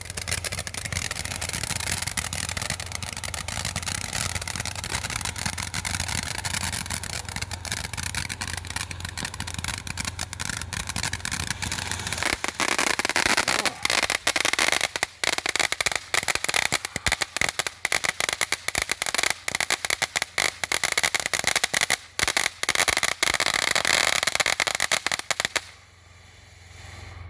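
A ground fountain firework burning. It starts as a steady hiss with a faint whistling tone, then about twelve seconds in turns to dense, louder crackling, which stops abruptly near the end.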